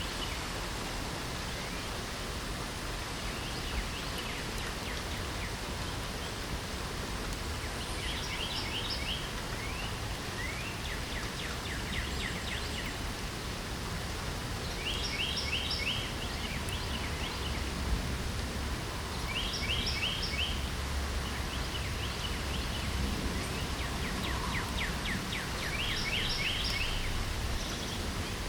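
Steady rain hiss with a songbird singing short phrases of rapid repeated notes, one every few seconds, about five in all.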